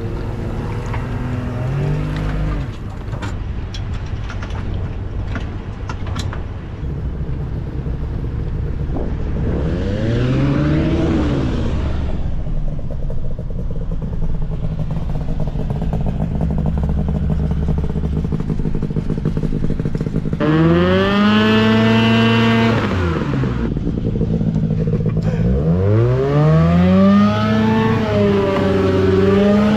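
An engine running under a steady low rumble, revving up and easing off several times: about ten seconds in, again around twenty seconds, and twice in quick succession near the end.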